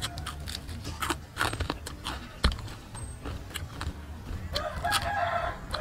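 Crunching and chewing of crispy deep-fried rat, with irregular sharp crackles as the pieces are bitten and pulled apart by hand. A drawn-out pitched call sounds near the end.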